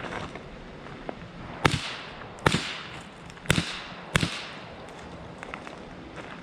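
Four .22 LR rifle shots from a Rock River AR-15 fitted with a CMMG .22 conversion kit, about a second apart, each with a short ringing tail.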